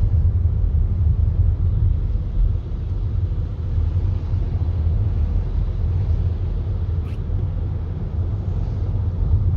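Car cabin road noise while driving on a wet road: a steady low rumble with tyre hiss, and a single faint click about seven seconds in.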